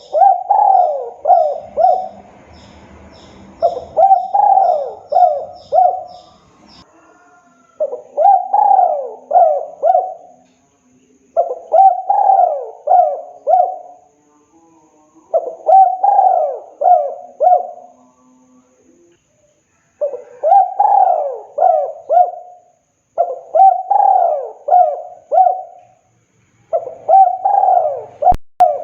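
Spotted dove (tekukur) singing its cooing song: phrases of four or five coos, repeated every three to four seconds. Faint high chirping from another small bird in the first six seconds.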